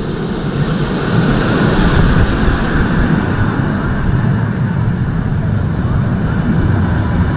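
Vintage EBT railway carriages rolling past close by, their steel wheels rumbling on the rails. The rumble is loud and steady, swelling over the first couple of seconds as the cars come alongside.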